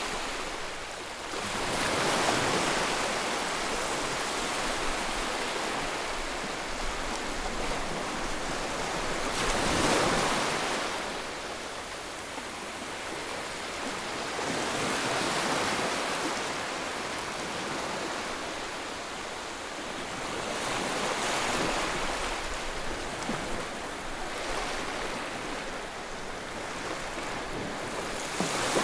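Ocean surf: waves washing in and breaking in a continuous rush that swells and ebbs every six seconds or so, the biggest swell about ten seconds in.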